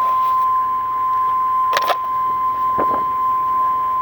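A steady, unbroken high tone, like a warning buzzer, sounds over the running 1993 Chevy 6.5 L turbo diesel. Two short knocks come just under two seconds in and again about a second later.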